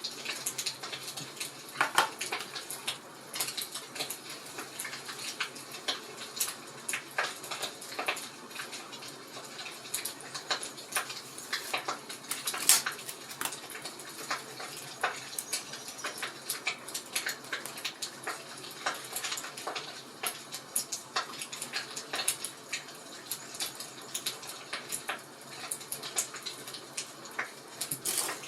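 Wood fire crackling in a fireplace: a steady hiss with frequent irregular snaps and pops, two of them louder, about two seconds in and about halfway through.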